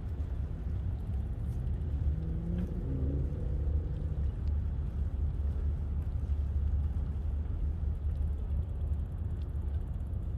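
Steady low rumble of wind and riding noise on a bicycle-mounted camera's microphone, with a faint pitched hum from a passing motor about two to four seconds in.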